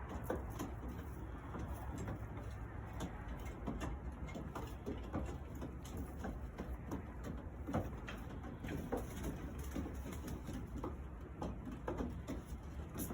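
Young pigeons in a loft cooing, with many short scattered taps and clicks over a steady low hum.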